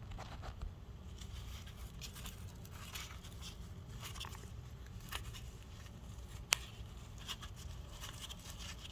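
Faint clicks and scrapes of a screw plug being undone on an oil hole of a Tomos A3 moped's engine case, with one sharper click about six and a half seconds in, over a low steady hum.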